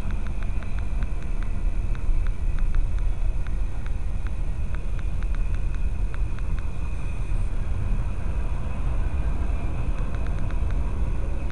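Freight train cars rolling past, heard from inside a car: a steady low rumble with many quick, light clicks that thin out midway and return near the end.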